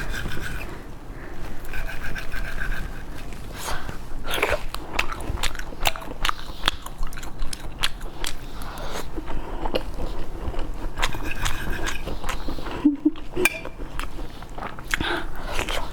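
A person biting and chewing food close to the microphone, with many short, sharp clicks and crunches throughout.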